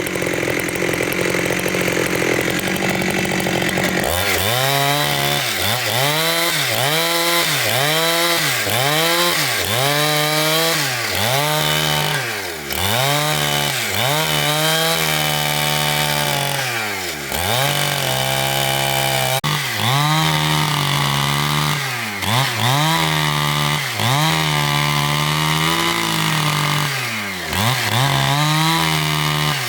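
Chainsaw cutting through a large log, its two-stroke engine pitch repeatedly dipping under load and recovering, about once a second from about four seconds in.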